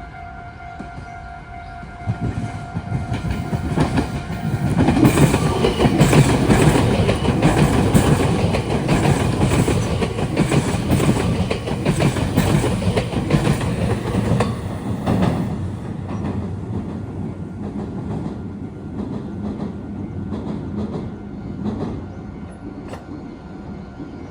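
A Meitetsu electric train passes close by, its wheels clacking over rail joints and junction points, loudest from about five to fifteen seconds in and then fading away. A steady two-tone level-crossing warning bell is heard at first and stops about five seconds in.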